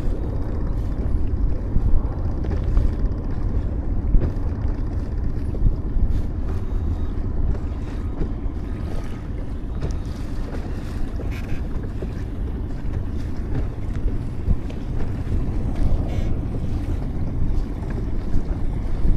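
Small Tohatsu outboard motor running steadily as the boat cruises, with wind buffeting the microphone.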